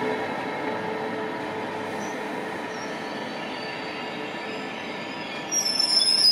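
SBB Re 460 electric locomotive and its intercity coaches arriving, with a steady hum from the locomotive that fades over the first few seconds. About five and a half seconds in, a high-pitched squeal from the train's wheels sets in as it brakes.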